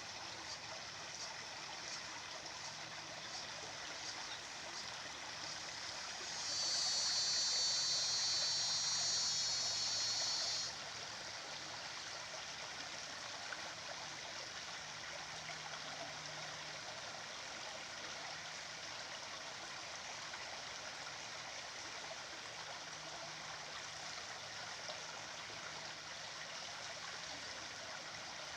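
Stream of running water, steady throughout. From about six to eleven seconds in, a loud high-pitched buzz rises over it and then stops abruptly.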